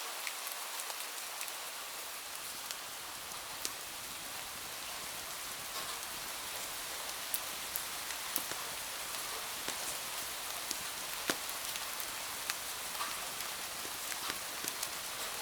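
Steady rain falling, a constant hiss with scattered sharp ticks of individual drops.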